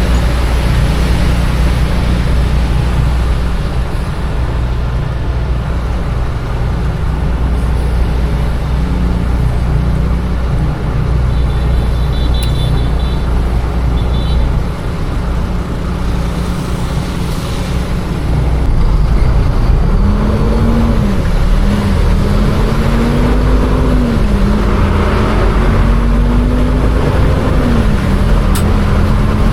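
Container truck's diesel engine running, heard from the driver's seat: a steady low hum for the first two-thirds, then it pulls away, its pitch rising and dropping back about three times as it goes up through the gears. A few short high beeps sound about halfway through.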